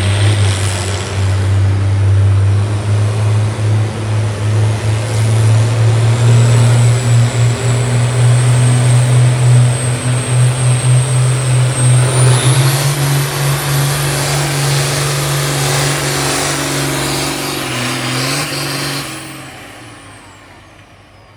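Farm tractor engine running hard under full load while pulling a weighted sled, with its pitch stepping up about twelve seconds in. The engine sound dies away over the last two seconds.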